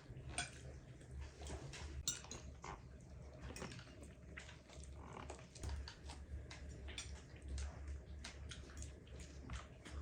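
Scattered light clinks and taps of dishes and cutlery, over a low steady hum.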